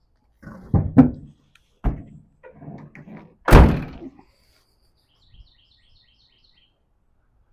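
A few knocks and thumps, then one loud door slam about three and a half seconds in.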